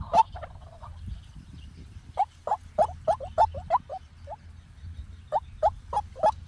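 White-breasted waterhen calling: rapid series of short, repeated croaking notes, about three a second. The notes break off twice, briefly after the start and again for about a second midway, then resume.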